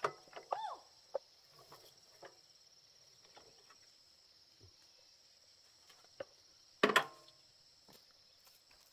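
Steady high-pitched insect buzz throughout, with scattered light knocks, a brief pitched sound near the start, and a short, loud clatter about seven seconds in.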